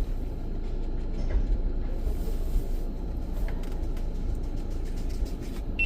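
Steady low rumble of a car running, heard from inside the cabin, with a short high beep near the end.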